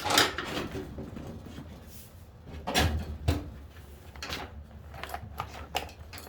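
Handling noise from seat parts being worked on: a few separate knocks and clatters, the loudest pair about three seconds in, over a low steady hum.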